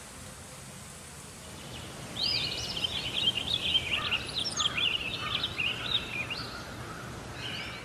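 Steady outdoor background hiss. From about two seconds in, a songbird sings a rapid, twittering song of quick high chirps and trills that runs until near the end.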